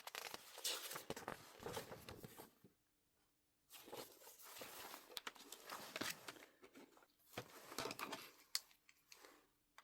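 Packaging being crinkled and torn by hand while an album is unwrapped, in irregular crackly bursts with a second-long dead gap about three seconds in.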